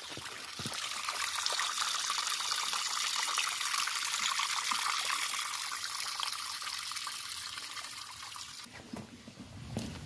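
Water trickling through a drainage culvert, a steady high splashing hiss that swells over the first couple of seconds and drops away sharply near the end.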